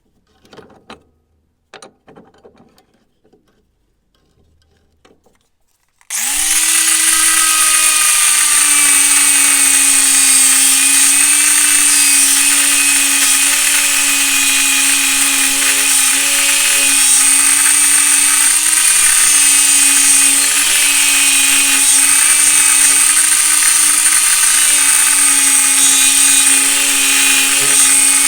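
A few light handling clicks. Then, about six seconds in, an electric power tool's motor starts abruptly and runs at a steady speed with a constant tone.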